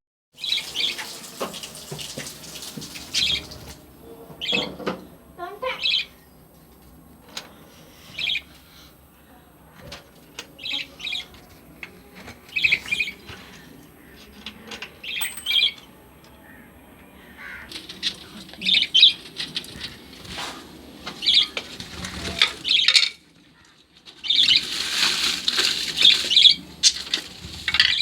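Pet lovebirds chirping in short, repeated bursts, with wing flapping. The chirping and flapping grow denser and louder near the end.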